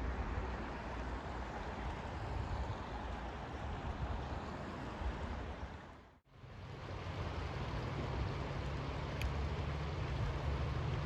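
Steady pink noise hiss, even and without tones. It fades out to near silence about six seconds in, then fades back in, as at a loop or track join.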